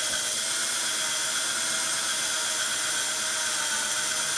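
Small electric drill running steadily with an even whine as it bores a hole through a bicycle quick-release skewer part.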